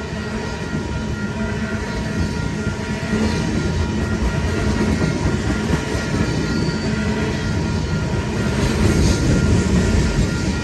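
Freight train cars rolling past at a grade crossing, their wheels running steadily on the rails.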